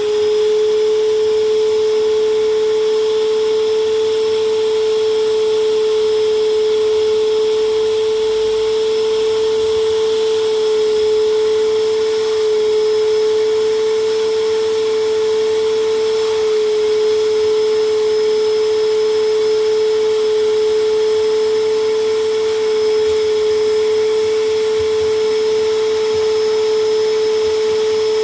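Vacuum cleaner motor running steadily with a strong, even whine over the rush of air. The pitch steps up slightly at the start and drops back at the end, as the motor's load changes.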